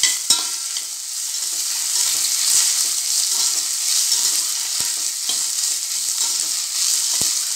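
Onions and ginger-garlic paste sizzling in hot oil in a steel pressure cooker while a metal spatula stirs and scrapes the pot, with a few sharp knocks of the spatula against the side.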